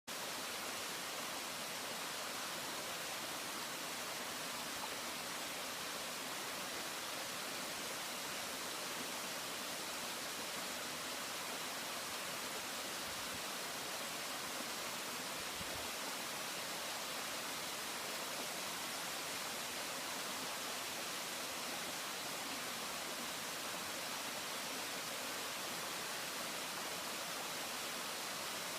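Waterfall: falling water making a steady, even hiss that does not change, with two faint low thuds about halfway through.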